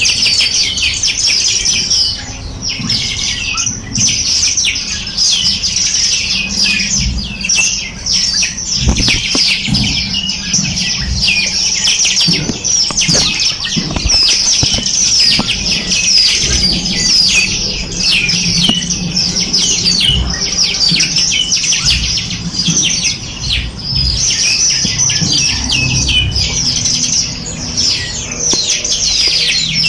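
Dense chorus of many small songbirds chirping and trilling rapidly and without pause, with a few soft low thumps underneath.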